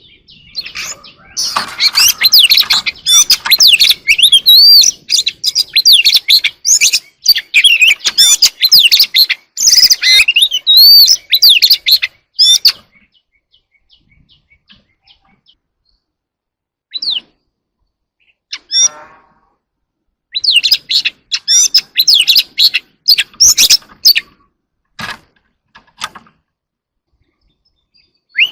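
Oriental magpie-robin singing: a long, rapid, varied run of loud whistled phrases, then a pause broken by a couple of single notes, a second shorter burst of song, and a few short sharp notes before it falls quiet.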